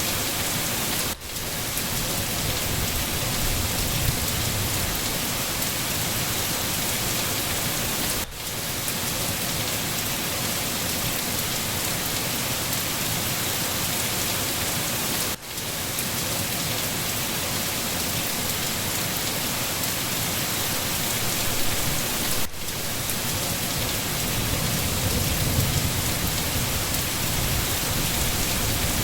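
Steady rain falling, an even hiss that briefly dips about every seven seconds, with a low rumble of thunder building near the end.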